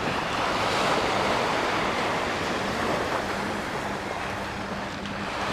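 Small sea waves washing up the sand, with wind on the microphone; the wash swells about a second in and eases near the end, over a faint steady low hum.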